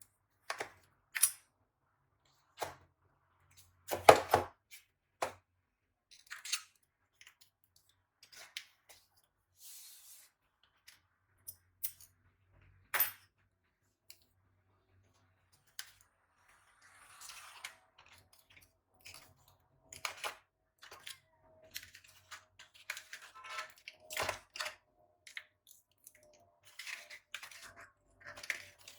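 Packaging handled during a webcam unboxing: scattered clicks, taps and knocks, the loudest about four seconds in, with some rustling and a faint steady hum in the second half.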